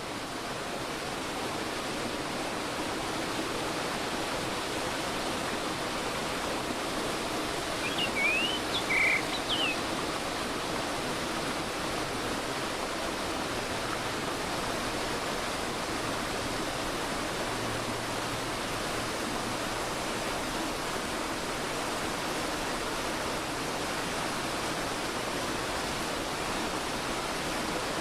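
Mountain valley stream flowing over rocks, a steady rushing of water. About eight seconds in, a bird calls briefly with a few quick chirps.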